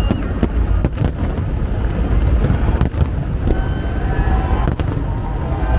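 Aerial fireworks going off in a dense barrage: a continuous low rumble of bursts, with sharper loud bangs about a second in, near three seconds and near five seconds.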